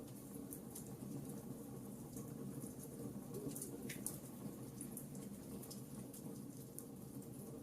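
Wood fire crackling in a fireplace: scattered sharp pops and snaps over a low steady rush of burning, with one louder pop about four seconds in.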